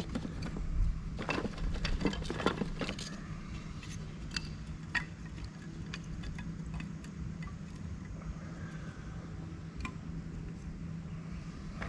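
Light clinks and clatters of small hard items, metal or glass, being handled, bunched in the first three seconds with a few single clicks later, over a steady low hum.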